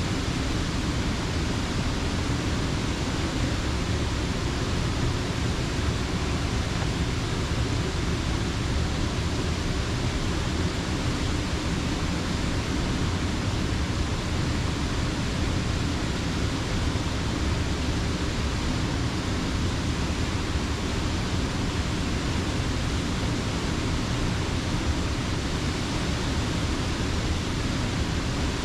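Creek water pouring over a low mill dam, a steady, unbroken rush.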